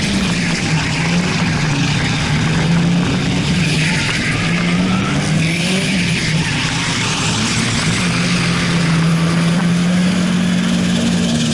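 Drift car engine held at high revs, its note dipping and rising every couple of seconds as the throttle is worked through the corners, over a loud hiss of tyre squeal and rushing air.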